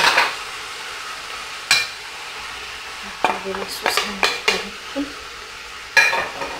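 Lamb pieces, garlic and mushrooms frying in oil in a stainless steel pot with a steady sizzle. A spatula stirs them, scraping and knocking against the pot several times.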